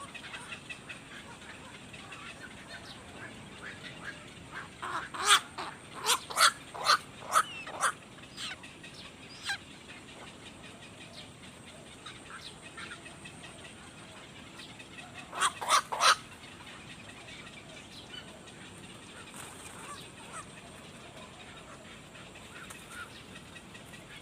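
Small birds calling: a run of six or seven loud, sharp calls starting about five seconds in, then a quick cluster of three more later, over faint continual chirping.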